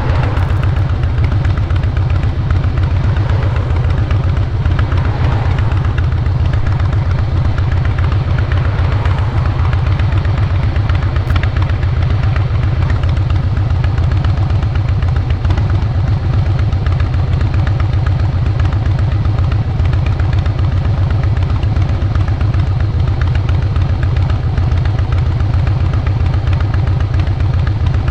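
A Harley-Davidson Fat Boy Lo's Twin Cam 96B 45-degree V-twin, stock fuel-injected, running steadily through Vance & Hines Big Radius 2-into-2 exhaust pipes. The low exhaust note holds even, with no big revs or gear changes.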